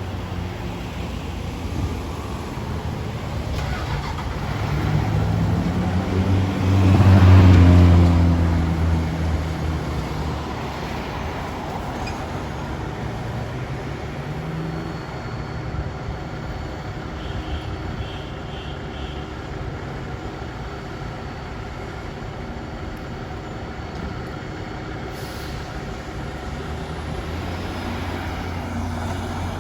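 Street traffic: a heavy vehicle's engine and tyres swell as it passes close, loudest about seven seconds in, over steady engine and road noise.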